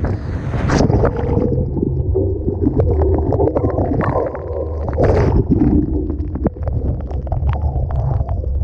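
Storm-surge seawater washing over and swamping the camera, heard as a loud, muffled low rumble with gurgling and scattered sharp knocks. A splash about a second in is followed by the sound going dull as water covers the microphone, and another splash comes about five seconds in.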